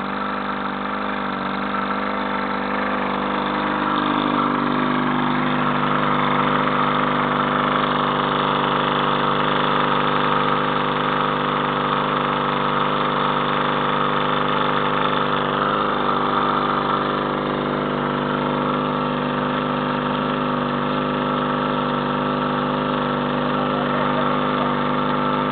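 An engine running steadily, picking up a little in speed and loudness over the first few seconds and then holding an even note.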